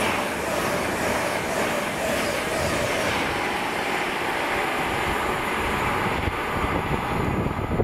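A train running past on the rails: a steady rush of wheel and track noise with a faint steady whine, its high hiss dying away over the second half.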